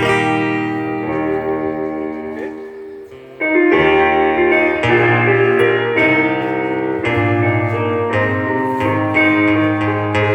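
Keyboard (piano) with guitar playing the slow instrumental introduction to a choral song. A held chord fades over the first few seconds, then fuller chords come in about three and a half seconds in and change roughly once a second.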